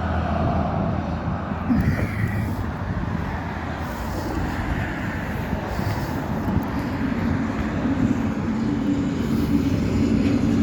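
A motor vehicle's engine running with a steady low hum over road and traffic noise, the hum growing a little stronger about two-thirds of the way through.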